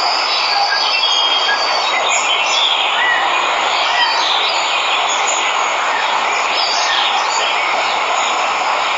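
Steady rush of a waterfall, with birds chirping over it now and then.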